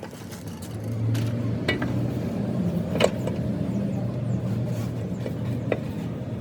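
A motor running with a steady low hum that grows louder about a second in, with a few sharp metallic clicks over it.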